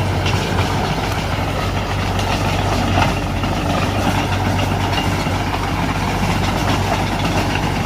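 Diesel engine of heavy earthmoving machinery running steadily, with a deep, even hum.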